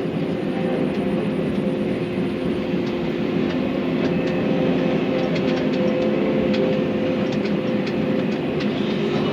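Excavator's diesel engine running steadily under load, with repeated sharp clanks and squeaks from its tracks and steel parts starting a few seconds in.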